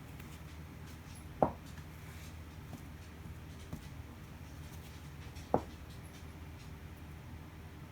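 Hampton Bay Redington IV ceiling fan running unmounted in a floor test: a steady low motor hum, with two sharp clicks about four seconds apart.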